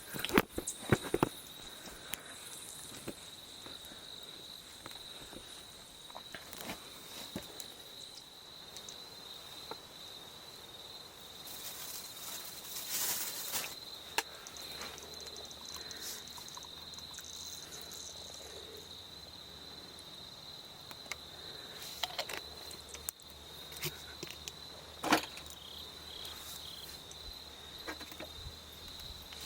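Insects trilling steadily on one high note, with scattered clicks and knocks, a brief rushing sound about halfway through, and one louder knock near the end.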